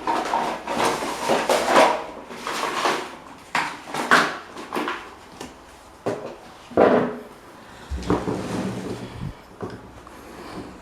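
Irregular scraping strokes and clunks of hand work on the rusty metal parts of an old electric desk fan, in uneven bursts, with a deeper rumbling clatter about eight seconds in.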